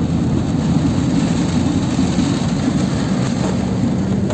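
Steady low rumble of a moving vehicle driving through heavy rain, with a continuous hiss over it.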